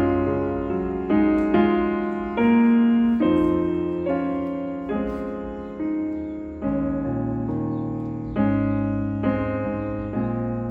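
Background piano music: slow, soft chords struck about once a second, each fading before the next.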